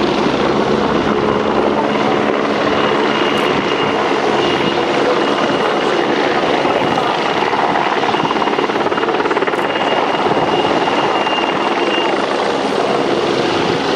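Helicopter running close by: a steady, loud rotor and turbine noise with a faint high whine over it.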